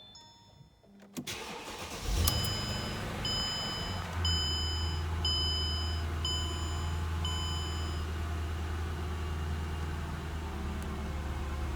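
2007 Mercedes-Benz CLS550's 5.5-litre V8 cold-starting: it catches about two seconds in with a brief flare of revs, then settles to a steady idle. A warning chime beeps about once a second for several seconds after the engine fires.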